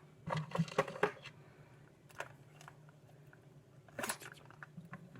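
Small objects being handled and set down, giving a cluster of light clicks and knocks in the first second, one more near two seconds and another cluster around four seconds, over a faint steady low hum.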